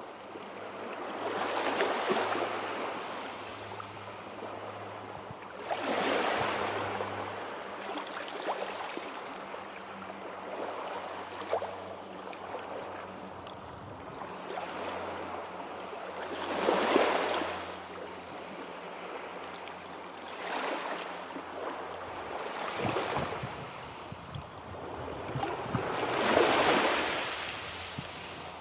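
Sea waves breaking and washing on a shore: a constant rushing surf that swells into louder breakers every few seconds, four of them standing out. A faint steady low hum lies underneath.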